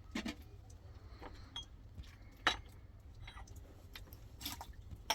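A few scattered, short, sharp clicks and light knocks over a low steady rumble, the loudest about halfway through and another right at the end.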